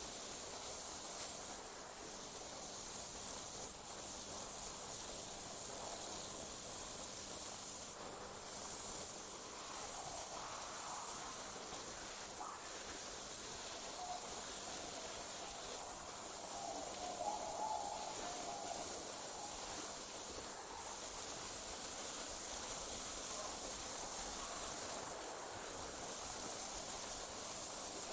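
A chorus of night insects, crickets or similar, trilling in one continuous very high-pitched note that drops out briefly every few seconds. Fainter, lower sounds come and go in the middle.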